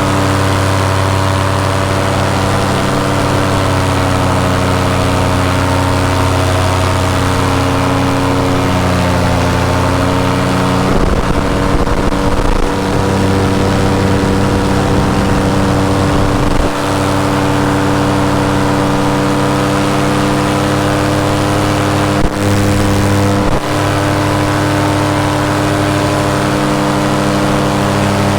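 Paramotor engine and propeller running steadily under power in flight, the pitch shifting a little with throttle changes.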